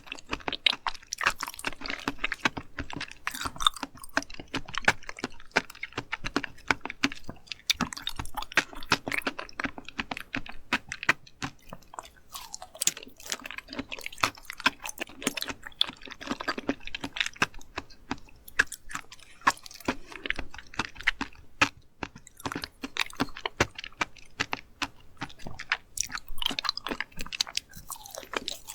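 Close-miked chewing of seafood, with many small crunches and wet clicks following one another, broken only by brief pauses.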